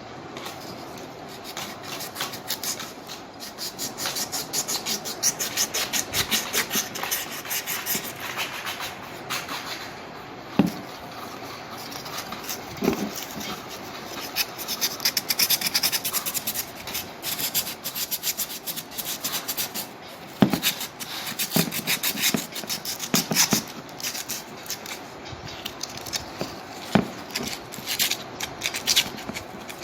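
Rapid back-and-forth scraping strokes of hand abrasion on the metal of a corroded antique compass, in long runs with short pauses, and a few sharp knocks in between.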